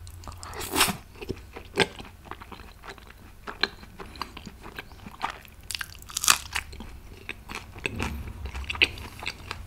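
A person chewing and biting a mouthful of chaap with raita close to the microphone: irregular sharp mouth clicks and crackles, a few louder ones standing out.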